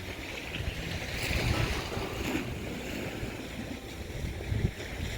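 Black Sea waves washing onto the shore, the surf hissing louder for a moment about a second in, with wind buffeting the microphone.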